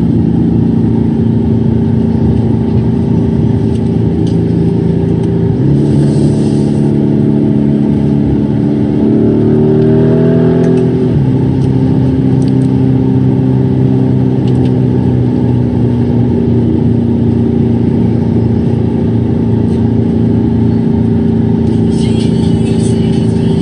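Lamborghini Urus twin-turbo V8 heard from inside the cabin at highway speed, a steady engine drone over road noise. The revs step up about six seconds in and climb. They drop sharply about eleven seconds in at an upshift, then sink slowly as the car slows.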